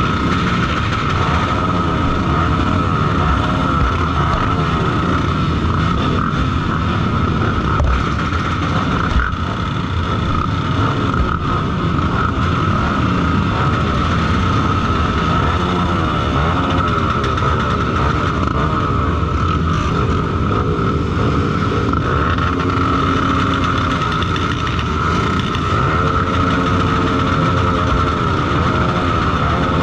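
Honda XR 250 Tornado trail motorcycle's engine running, its revs rising and falling over and over. A steady high whine runs through it.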